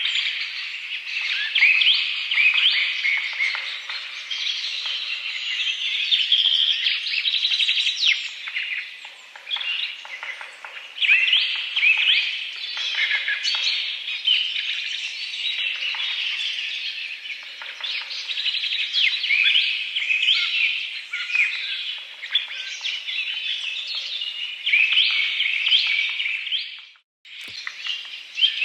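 A dense chorus of many songbirds chirping and calling over one another, with quick rising and falling notes. Near the end the sound cuts out for a moment and comes back with a click.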